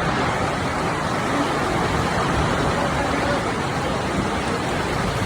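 Heavy rain pouring down steadily, a dense even rush with no separate drops standing out.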